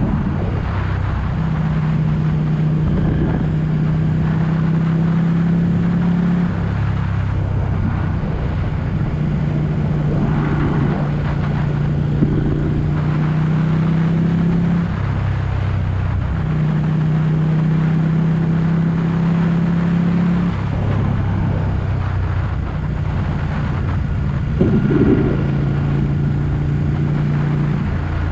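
Ducati 1199 S Panigale's Superquadro V-twin engine under way, holding a steady note for several seconds at a time and dropping to a lower note three times. It gets briefly louder near the end.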